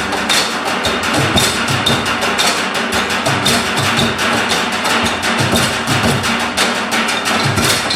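Live percussion-heavy ensemble music: a fast, dense run of wooden and drum-like strikes over a sustained pitched backing.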